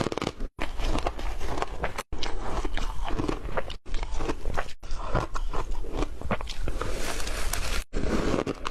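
Close-miked crunching and chewing of ice, with dense irregular cracks and crackles as the ice breaks between the teeth. Several brief total cuts break up the sound.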